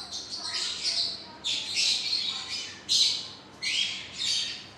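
Pet parrots squawking: about four short, harsh screeches with pauses between them.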